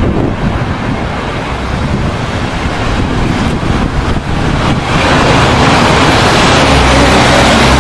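Wind buffeting the microphone, then from about five seconds in the engine noise of a jet airliner grows louder as it approaches, with a thin high whine rising near the end.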